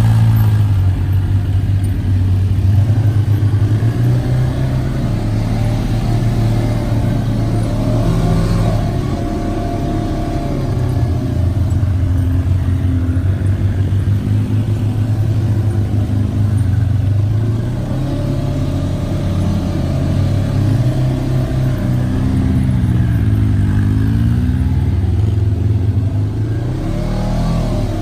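Polaris RZR side-by-side's engine running as it is driven, its pitch rising and falling with the throttle, most clearly near the end.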